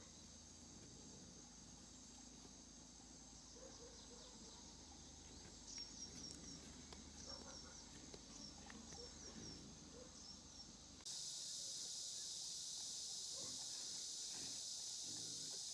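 Steady high drone of insects with a few short, quick bird chirps in the middle. About eleven seconds in, the insect drone abruptly jumps to a louder, denser buzz.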